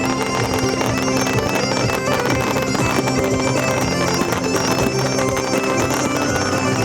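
Celtic bagpipe music: steady drones sound under a pipe melody.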